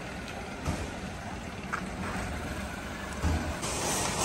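Renault Kwid's small engine running at low revs as the car moves slowly out. A louder low rumble comes about three seconds in, and the sound grows a little louder after it.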